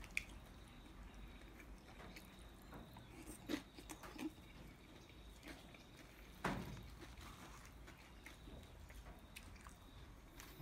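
Faint close-up eating sounds: chewing, with a knife and fork scraping and clicking in a foam takeaway box. Four sharp clicks stand out, the loudest about six and a half seconds in.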